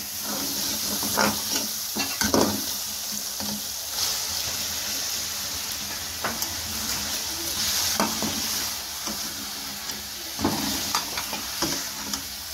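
Chicken pieces sizzling in hot oil and masala in a metal pan, with a steady hiss, while a metal spoon stirring them scrapes and clinks against the pan now and then.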